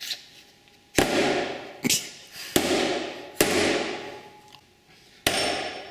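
Hammer blows on metal while working a dirt bike wheel bearing: five hard, irregularly spaced strikes, each ringing out briefly.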